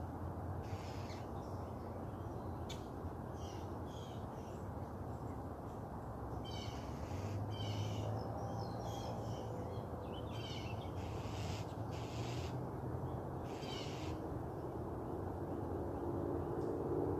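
Wild birds calling in short, separate calls a second or so apart over a steady low background rumble. A low steady hum comes in near the end.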